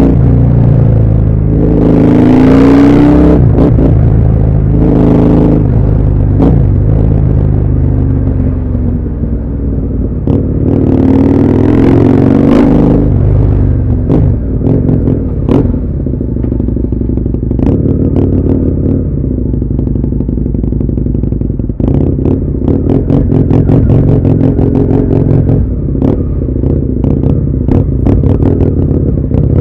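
Husqvarna Nuda 900R's parallel-twin engine on the move, its pitch rising with the throttle and falling off again several times in the first half. From about 14 seconds in, a rapid run of sharp crackles sits over the engine as it pulls along at lower revs.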